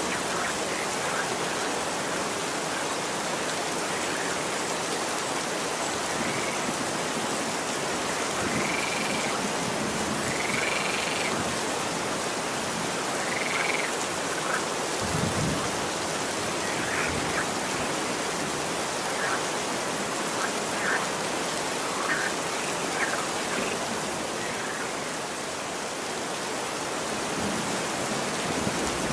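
Steady rain falling. A few short, high calls from an animal sound through the rain partway in, and a brief low rumble comes about halfway.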